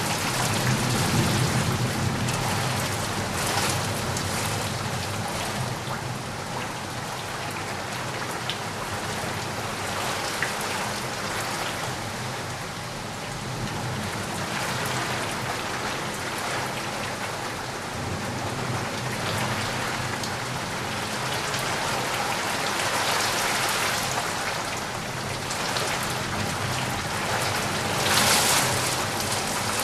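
Steady rain, a dense even hiss of drops that swells and eases, briefly louder near the end.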